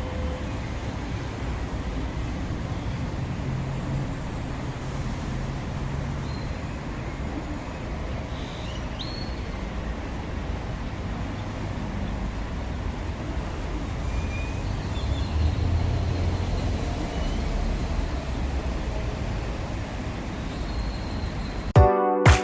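Steady low rumble of a Concarril/Bombardier TE-95 light rail train running, with faint thin high squeals and swelling louder about two-thirds of the way in. Music with a sharp beat cuts in right at the end.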